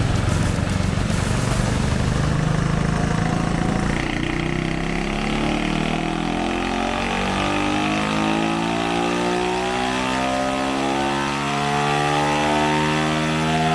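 Single-cylinder YX140 engine in a Honda CT70 making a pull on a chassis dyno. It runs rough and low for about four seconds, then the engine note climbs steadily in pitch as it revs up under load.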